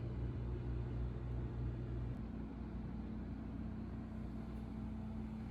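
Steady low mechanical hum, its pitch stepping up about two seconds in.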